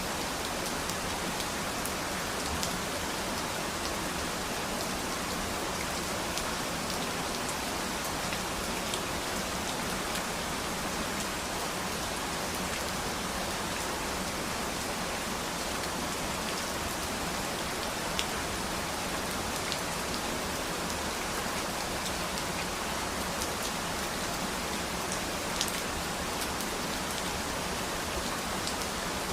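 Steady rain falling, an even hiss with scattered sharper drips of drops striking a surface.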